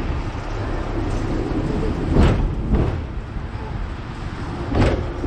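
Hong Kong double-decker electric tram running: a steady low rumble with a few sharp clunks, two about two seconds in and two near the end.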